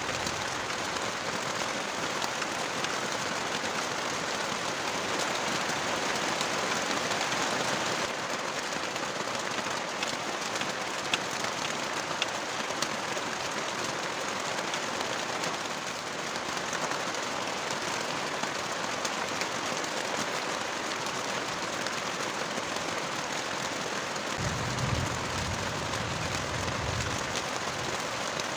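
Heavy rain falling steadily, with a few faint drips or ticks. A low rumble lasts a few seconds near the end.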